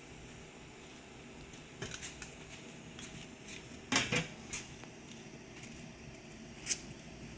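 Scattered metallic clinks and clanks of hand tools and transmission parts being handled, loudest in a short cluster about four seconds in.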